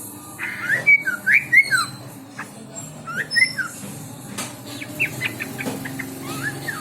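A songbird singing: loud whistled phrases with quick up-and-down slurs in the first two seconds, another phrase about three seconds in, then a fast run of short notes about five seconds in.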